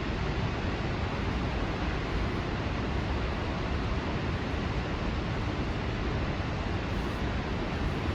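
Waterfall roaring: a steady, even rush of falling water with no breaks.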